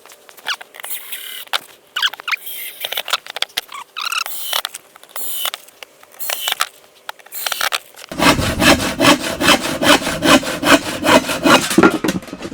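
Handsaw cutting through a piece of wood, with short, uneven strokes at first, then fast, steady back-and-forth strokes at about five a second from about eight seconds in.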